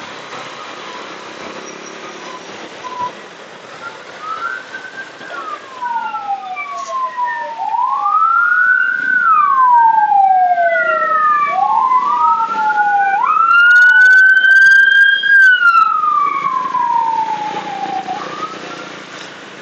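Emergency vehicle siren wailing in long rising and falling sweeps. It grows louder through the middle and fades away near the end, over steady road and wind noise from the ride.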